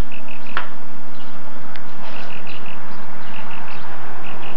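A bird chirping in short repeated notes, in quick runs of several, over steady hiss and a low constant hum. A single click sounds about half a second in.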